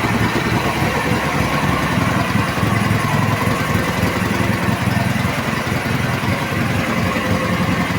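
Ural motorcycle's air-cooled flat-twin engine idling steadily, cold, just after starting on its electric starter, with the chokes still closed.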